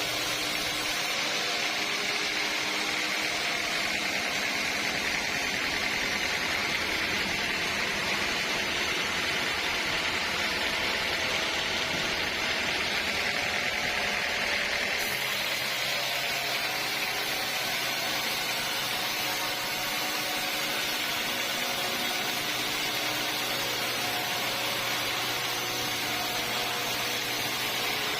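Sawmill saw running through teak timber, a steady noisy whir that changes abruptly about halfway through.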